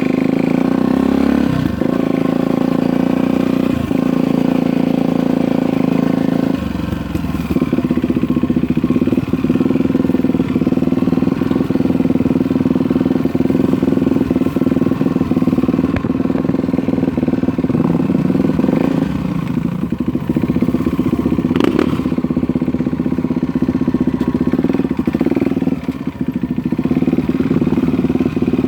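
Dirt bike engine running steadily at a low, even pitch, close to the microphone, with small shifts in pitch a few seconds in and again about two-thirds of the way through.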